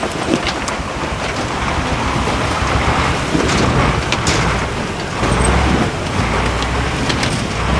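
Off-road 6x6 truck's diesel engine running under load, swelling louder for about half a second a little past halfway, with a few short knocks or clicks over it.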